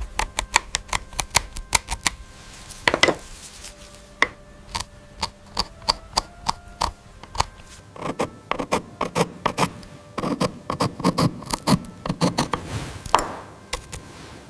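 A rapid, irregular series of sharp clicks and taps, several a second, with a brief brushing swish about three seconds in and another near the end.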